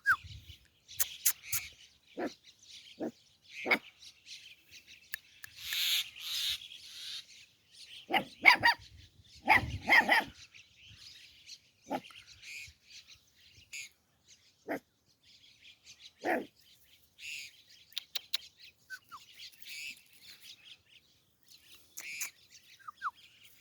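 A dog barking in short, irregularly spaced barks, several close together about a third of the way in, with birds chirping throughout.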